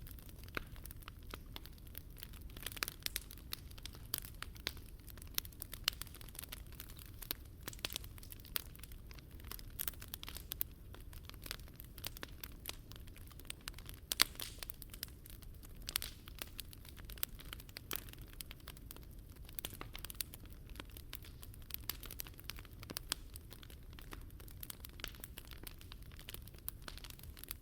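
Wood fire crackling: a steady run of small snaps and crackles, with one sharper pop about fourteen seconds in, over a low steady rumble.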